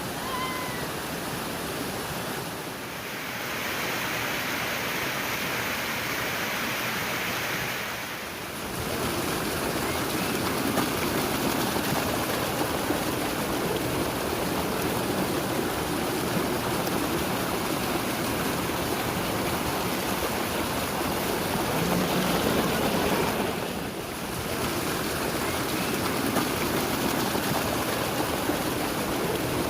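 Water of a hill-stream waterfall rushing over rocks, a steady loud rush that dips briefly three times.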